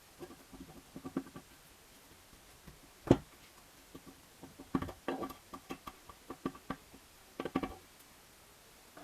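Clicks and knocks of tools and parts being handled during hand work. One sharp knock comes about three seconds in, and two clusters of quick clicks follow near the middle and near the end.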